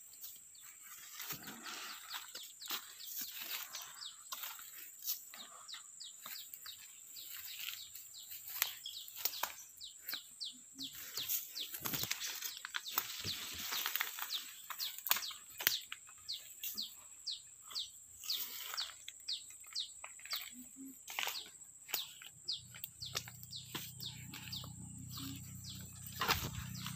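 Small birds chirping, many short quick calls that fall in pitch, over a steady high insect drone. A low hum comes in near the end.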